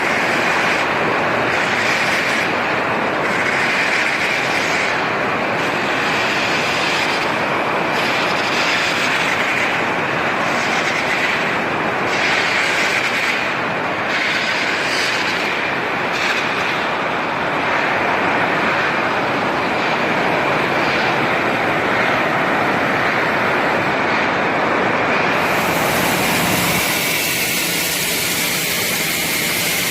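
Electric arc welding running steadily, a dense continuous noise; about 25 seconds in, a higher hiss comes in and the sound changes.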